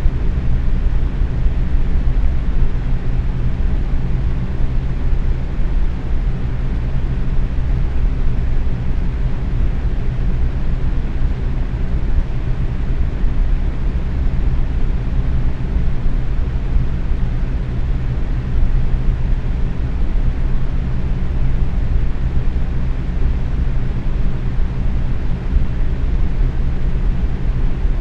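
Box fan running steadily at medium speed: an even rush of air, weighted low, with a steady low hum underneath.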